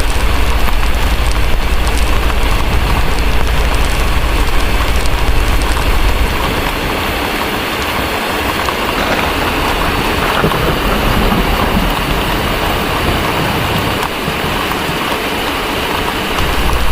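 Steady heavy rain with a low thunder rumble underneath. The rumble fades out about six seconds in and builds again near the end.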